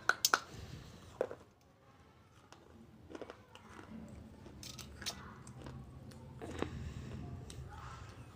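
Someone eating: chewing and biting noises with a few sharp clicks, the loudest cluster just after the start and single clicks scattered through the rest.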